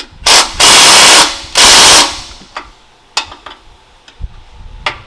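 Impact wrench hammering in three loud bursts, one short and then two longer ones, while a shock absorber is being taken off the truck's suspension, followed by a few light metallic clicks.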